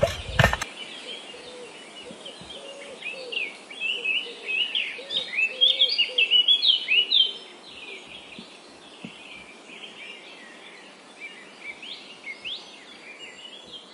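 A tamping rammer pounds the dirt for about the first half-second, then cuts off. After that, songbirds chirp and twitter in many short, quick calls over a light hiss, busiest a few seconds in and sparser towards the end.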